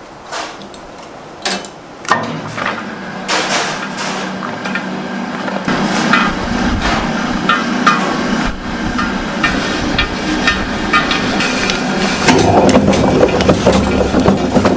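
Repeated sharp knocks and clatter, with a steady machine-like running sound coming in about six seconds in and growing louder near the end.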